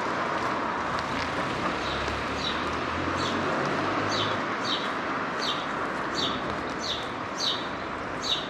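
A small bird chirping over and over: short, high, falling chirps every half second to a second, starting about two seconds in and loudest near the end, over steady town street noise with a low vehicle rumble that fades about halfway through.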